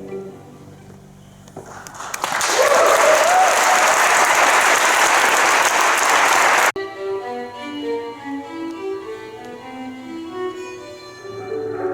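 Audience applauding, with a single rising cheer in it; the applause cuts off abruptly about two-thirds of the way through into a solo harp playing slow plucked notes that ring on over one another.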